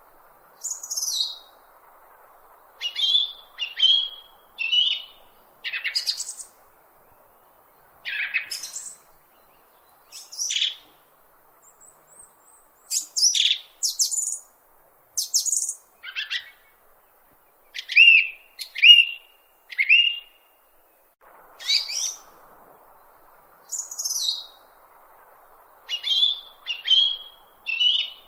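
A bird calling in short, sharp chirps, many sliding down in pitch, repeated roughly every second or two with brief pauses.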